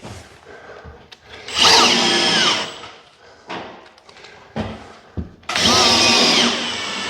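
Power drill driving screws into a plasterboard ceiling patch: two runs of motor whine of about a second each, the pitch sagging as each screw is driven home, with light knocks between.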